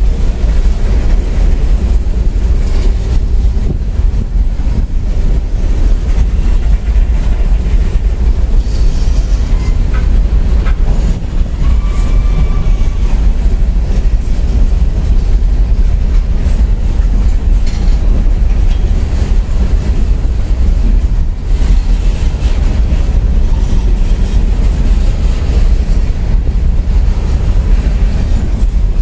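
CSX freight train of open-top coal hopper cars rolling past at close range: a loud, steady rumble of wheels on rail with clickety-clack from the rail joints. A faint, brief high tone sounds about twelve seconds in.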